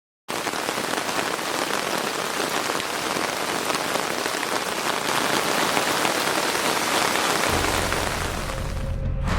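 Heavy rain falling, a dense steady hiss that starts abruptly. About three-quarters of the way through, a low sustained music note comes in and the rain fades out near the end.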